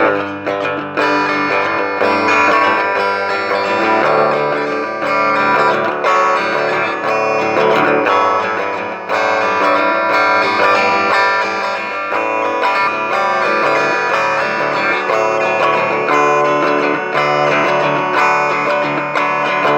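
Music played on guitars, plucked and strummed, with sustained chords at a steady level.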